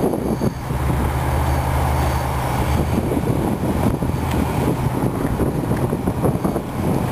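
Cat 345B hydraulic excavator's diesel engine running under load, its low steady note heaviest in the first couple of seconds, with a stream of irregular knocks and clatter over it.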